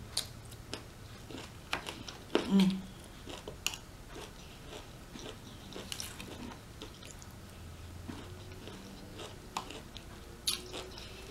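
Close-miked chewing of rotisserie chicken, with scattered wet mouth clicks and smacks and one brief louder mouth sound about two and a half seconds in.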